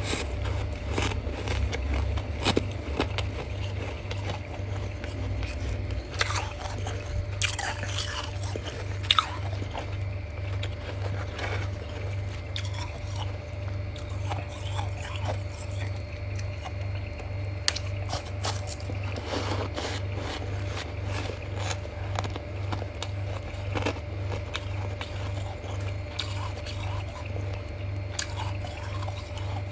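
Close-miked biting and chewing of freezer frost: crunching, with many sharp crackles scattered throughout, a few louder snaps, over a steady low hum.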